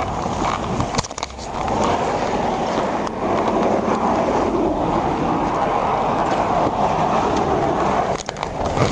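Steady rushing road and tyre noise of a vehicle on the move, dipping briefly about a second in.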